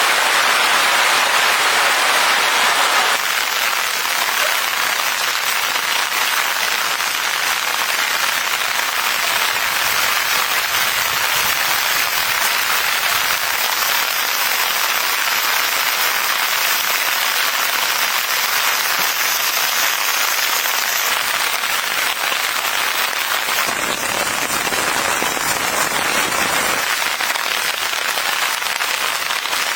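Steady rain falling, a dense hiss of many small drop hits without a break.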